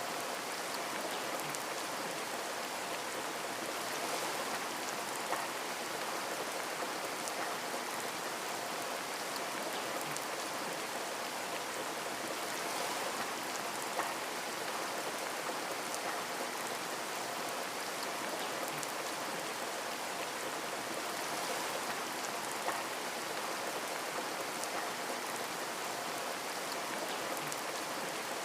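Steady rain with scattered drops ticking on a window, and a few slightly louder single drop hits.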